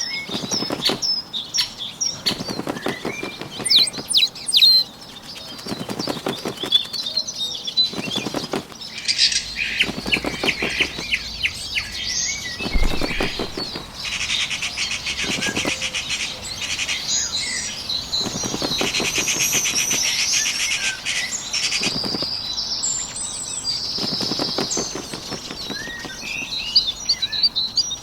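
Sound effects of a small bird's wings fluttering in repeated bursts every second or two, over birdsong ambience with high chirps and fast trills, the trills densest in the middle of the stretch.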